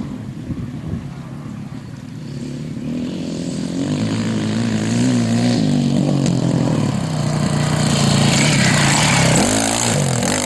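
Motorcycle engine revving as it approaches, growing steadily louder, with its pitch wavering as the throttle is worked. Near the end the pitch climbs and drops quickly several times.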